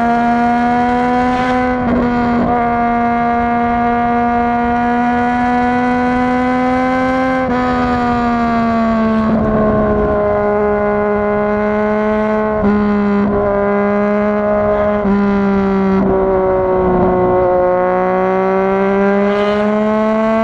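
Yamaha MT-09's 847 cc inline-three engine running steadily under way at a nearly constant pitch, with a few brief throttle dips and slight rises and falls in revs.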